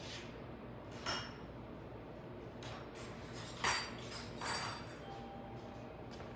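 Metal tools and parts clinking and rattling as they are handled, in three short bouts: about a second in, then twice more between three and a half and four and a half seconds in.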